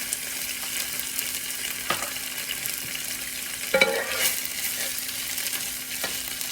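Rotisserie chicken in barbecue sauce sizzling steadily on a hot griddle as it is stirred, with a few sharp clacks, the loudest about four seconds in.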